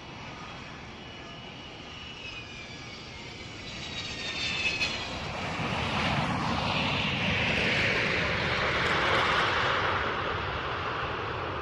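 Jet airliner engines whining, then a rushing roar that builds, peaks about eight to nine seconds in and eases off, like a plane passing.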